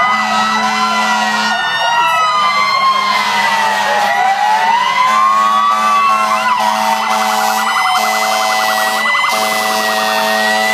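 Several fire truck sirens wailing at once, their pitches rising and falling against one another. A fast yelping warble joins about seven seconds in, over a steady low tone that breaks off now and then.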